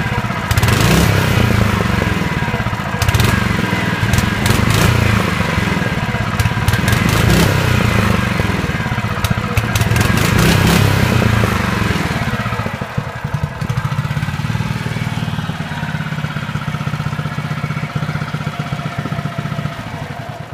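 Honda walk-behind lawn mower engine running, its speed wavering up and down at first. About two-thirds of the way through it settles to a quieter, steadier note, and it starts to die away at the very end.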